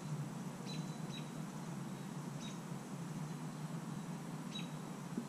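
A bird gives four short, high chirps, each a quick downward sweep, spaced irregularly over a steady low background rumble.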